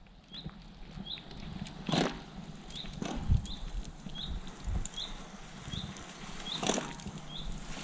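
A small bird repeating a short, high, upswept call about every two-thirds of a second, with a couple of sharp knocks and a few low thuds from camp handling.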